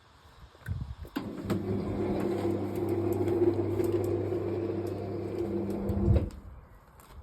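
Electric garage door motor running with a steady hum for about five seconds, starting with a clunk and stopping with a low thump as the door reaches the end of its travel.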